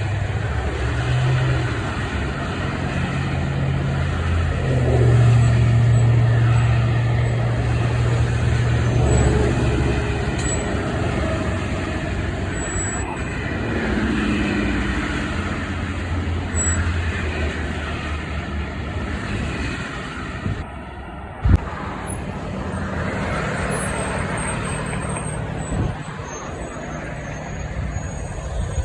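Street traffic with a heavy truck's engine running, its low drone strongest in the first half. There is a single sharp knock about three-quarters of the way through.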